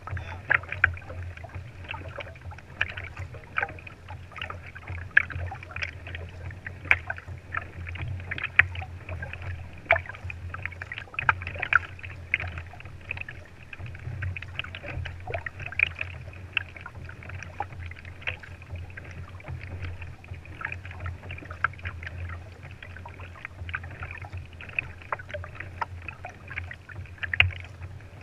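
Water lapping and splashing against a kayak's hull: many small, irregular splashes over a steady low rumble.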